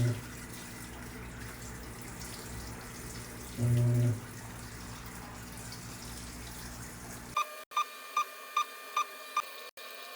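Panasonic 12 kg washing machine running a wash cycle, water running steadily, with a brief low humming buzz about four seconds in. Near the end, six short beeps about a third of a second apart.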